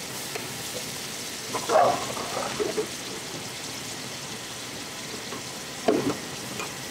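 Marinated chicken tikka pieces frying in hot oil in a pot, with a steady sizzle. A few louder knocks of a utensil against the pot come about two seconds in and again near six seconds.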